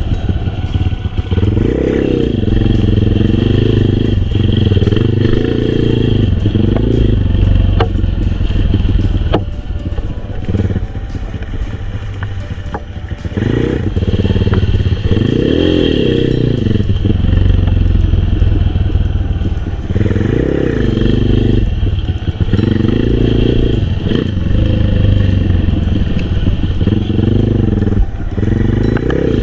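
Honda XRM125 underbone motorcycle's single-cylinder four-stroke engine revving up and dropping back over and over as it is ridden hard, easing off for a few seconds about ten seconds in. A few sharp clacks come about eight to nine seconds in.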